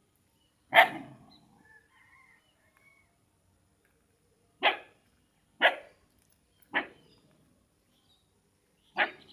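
A dog barking five single, sharp barks spaced a second or more apart, the first the loudest.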